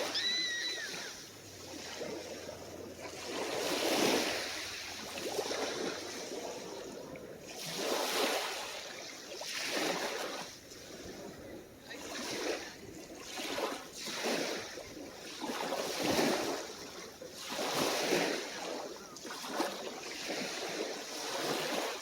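Calm, small waves washing onto the shore, each surge swelling and fading about every two seconds. A brief high-pitched call sounds just after the start.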